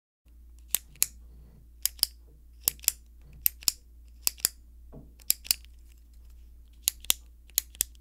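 Retractable click pen's push button being clicked over and over, each press giving a quick double click. The double clicks come about eight times, a little under a second apart.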